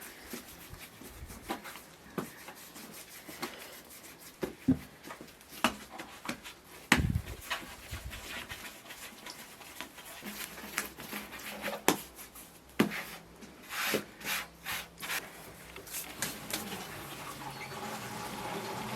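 Irregular clicks, knocks and rubbing from objects being handled, with a few sharper knocks about seven, twelve and thirteen seconds in.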